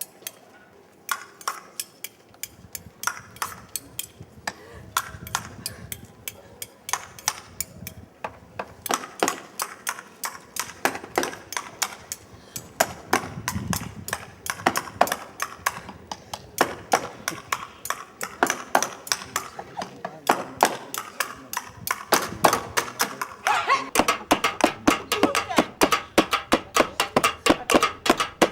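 Sharp percussive taps, sparse at first and then quickening to a dense patter of several a second, with a sustained pitched sound joining in near the end.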